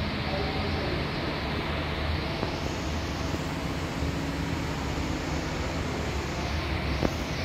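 Steady hiss and low hum of background room noise, with a single sharp click near the end.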